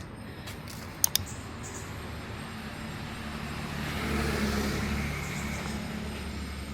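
Motor vehicle sound: a steady low engine hum with road noise that swells about four to five seconds in, as of a vehicle passing. A couple of sharp clicks about a second in.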